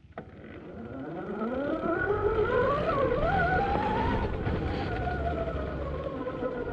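Admitjet Armor electric dirt bike's motor whining as the bike pulls away, its pitch rising steadily for about four seconds and then levelling off as it holds speed. Wind buffets the microphone underneath.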